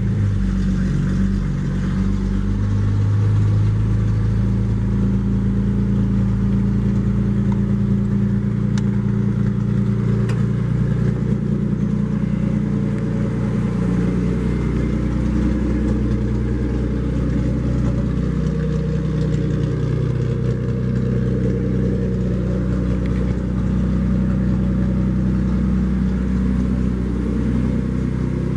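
The 1970 Chevrolet 250 cubic-inch straight-six of a restored 1941 Chevy pickup running steadily, just after starting, with its engine speed rising and falling a little at times.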